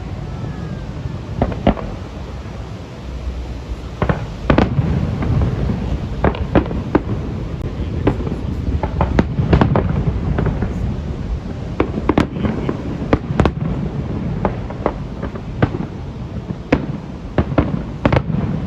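Aerial fireworks display: shells bursting in a rapid, irregular series of sharp bangs over a continuous low rumble.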